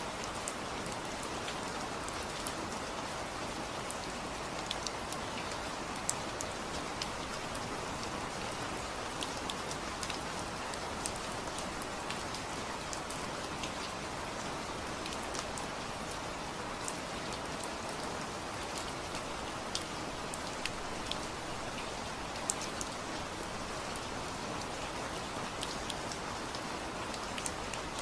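Steady rain falling, a constant hiss with scattered sharper drop ticks on a nearby surface.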